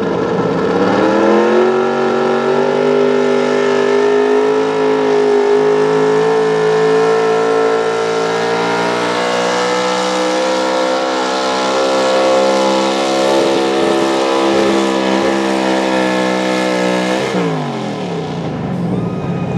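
Pro Stock 4x4 pulling truck's engine at full throttle under load while dragging the sled. It revs up quickly, holds high revs that creep slowly upward, then the throttle is cut about 17 seconds in and the pitch falls away.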